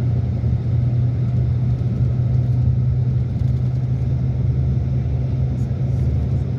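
A steady low rumble with a constant low hum, like an engine running at an even speed.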